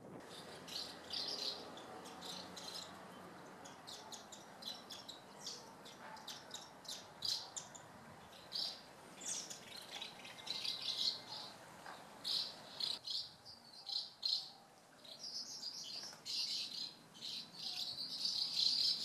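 Asian house martins twittering: many short, buzzy chirps that come thicker and more continuous toward the end.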